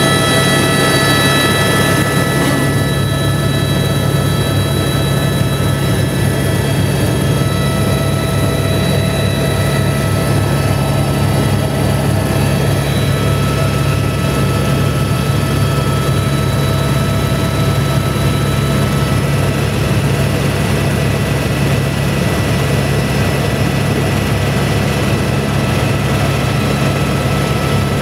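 Helicopter in level flight: a loud, steady engine and rotor drone with a thin high whine held over it, unchanging throughout.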